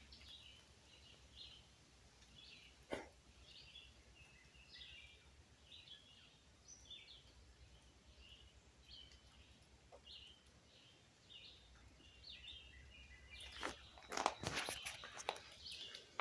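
Faint birds chirping repeatedly in the background, with a single knock about three seconds in and a cluster of louder knocks near the end.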